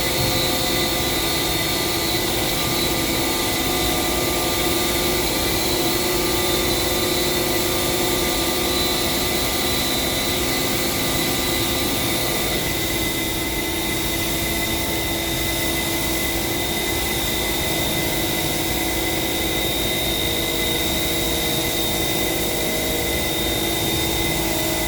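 Spray-painting equipment running steadily: a constant hiss of air over a steady hum and whine, with no breaks.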